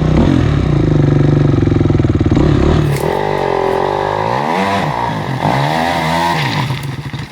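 Big Honda dirt bike's engine under load on a steep rocky hillclimb: steady at first, then revving up and down repeatedly from about three seconds in as the rider works the throttle, fading away near the end.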